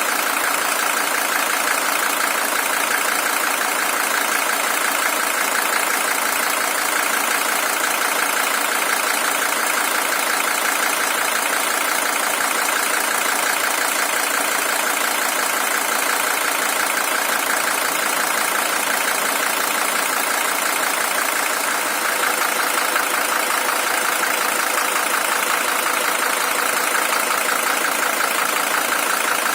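Mercedes-Benz OM617 five-cylinder diesel engine idling steadily with its even diesel clatter. It is a high-mileage original engine of about 620,000 km, fully warmed after some 49 minutes of running.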